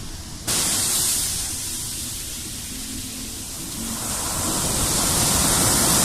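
Steady rushing wash of sea waves, starting abruptly about half a second in and swelling from about four seconds.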